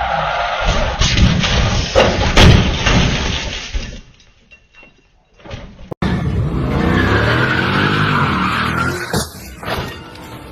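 Motor vehicle noise. For about four seconds there is loud road and engine noise with a few sharp knocks. It drops away, and after an abrupt cut an engine revs, its pitch rising and falling, with a couple of knocks near the end.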